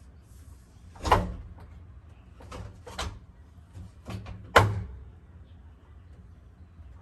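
Several sharp plastic knocks and clunks from handling the top-load washing machine's lid and top cover. The loudest come about a second in and about four and a half seconds in.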